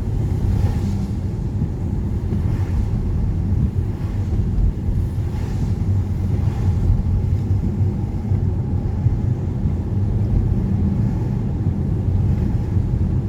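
Steady low engine and road rumble inside a moving car's cabin, with faint soft swishes every couple of seconds.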